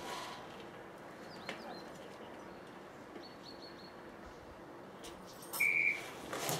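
Faint chirps of small birds, a few short high calls over a quiet outdoor background. Near the end comes one short, steady high tone, louder than the chirps, with brief rustling around it.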